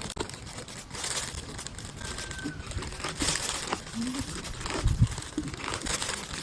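Crinkling and rustling in irregular bursts, with some tearing sounds.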